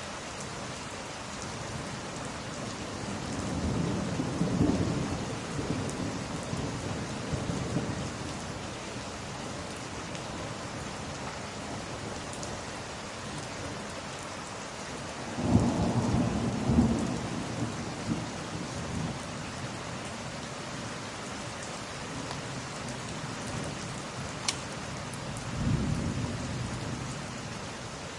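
Steady rain with three rolls of thunder rumbling through it; the middle one, about halfway in, starts with a sharp crack and is the loudest.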